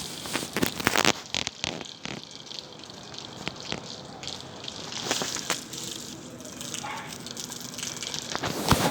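Bonfire burning: a steady rushing of flames with irregular sharp crackles and pops from the burning wood, the loudest pops about a second in and near the end.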